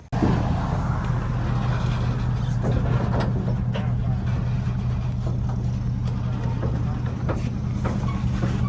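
A vehicle engine running steadily, a low even drone, with a few light knocks and clatters over it.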